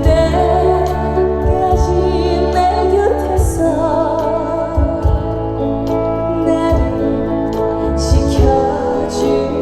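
A woman singing a slow, calm trot song live over amplified accompaniment with a steady low beat, her voice wavering with vibrato.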